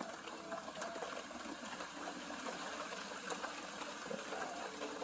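Rain falling steadily on the surface of a koi pond, an even hiss of water.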